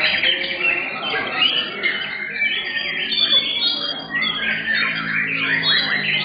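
Several white-rumped shamas (murai batu) singing at once, a dense overlapping mix of rapid whistles, sweeps and chattering notes.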